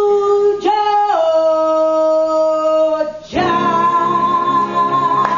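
A singer holding long, drawn-out notes with no words, scooping up into each note and sliding down about a second in. There is a brief break about three seconds in, then one long high held note.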